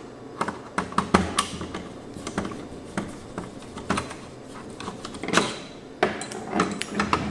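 Irregular clicks, taps and light knocks of small plastic and metal parts being handled and pried apart while the receiver's calibration microphone assembly is disassembled.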